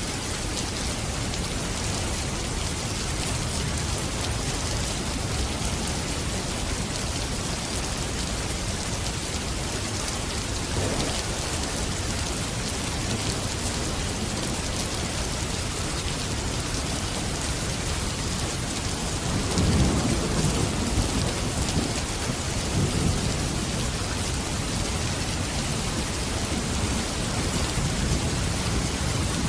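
Steady, heavy rain falling, with low rolls of thunder swelling up about two-thirds of the way through and again near the end.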